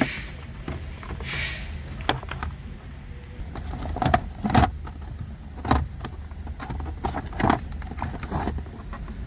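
Irregular plastic clicks, knocks and rustling as the Ford Fusion's instrument cluster and surrounding dash trim are handled and worked loose, about eight sharp knocks spread through, over a steady low hum.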